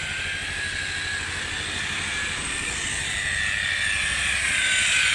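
Electric rotary polisher running on a car's paintwork during machine rubbing, a steady high whine that wavers slightly in pitch and grows gradually louder.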